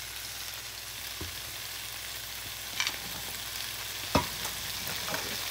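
Shrimp, diced onion and red pepper sizzling steadily in a hot frying pan, with two short knocks about three and four seconds in.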